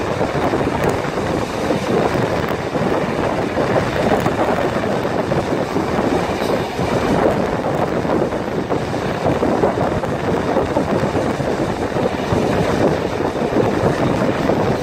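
Wind rushing over a microphone held out of a moving passenger train carriage's window, mixed with the steady running noise of the train on the track. Steady throughout, with no distinct beats or whistles.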